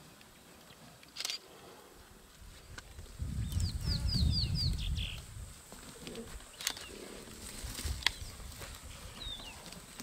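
A bird gives a quick run of five short down-slurred chirps about three and a half seconds in, over a low rumble. A few sharp clicks sound before and after it.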